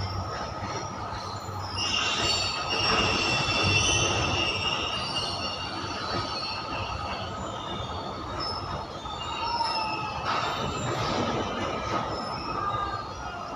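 Indian Railways freight train of covered goods wagons rolling past with a steady rumble of steel wheels on rail. High-pitched wheel squeal rises about two seconds in, fades after about five seconds, and returns near the end.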